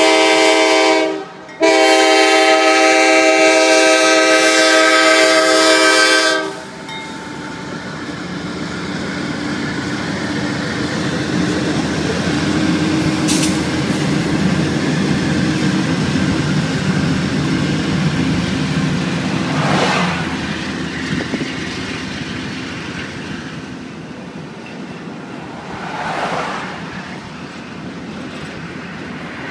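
Locomotive air horn sounding several notes together: a blast, a brief gap, then a long blast held for about five seconds. It cuts off and gives way to the steady rumble of the train rolling past, which swells in the middle and has a couple of brief louder noises near the end.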